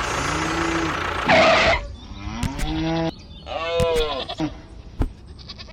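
An engine running that cuts out about two seconds in. Over it and after it, a farm animal bleats about four times, with a few sharp clicks in between.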